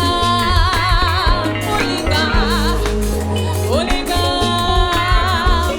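Live band music: a woman's voice sings long held notes with vibrato over steady bass and drums.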